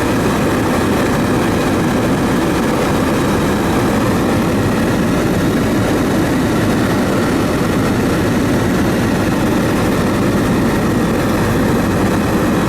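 Aircraft in flight: a steady, loud engine drone with no change in pitch or level.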